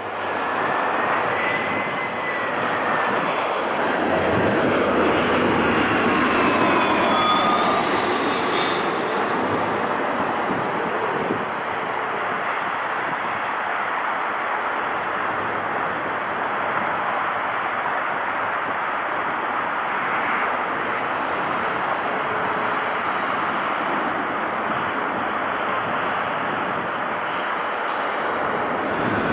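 Jet airliner engines passing by: a loud, steady rush of engine noise, with a whine that glides down in pitch over the first several seconds.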